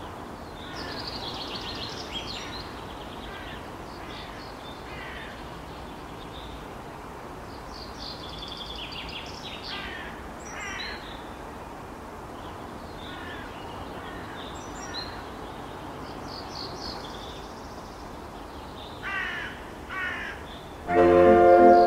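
Outdoor ambience of birds calling repeatedly, in short harsh bursts scattered through, over a steady low background rush. About a second before the end, music with sustained keyboard chords comes in.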